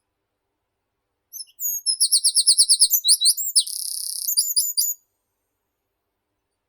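A small meadow songbird sings one high song phrase of about three and a half seconds. It opens with a few short notes, runs into a fast series of about eight repeated downslurred notes, moves to a buzzy trill, and closes with a few separate notes.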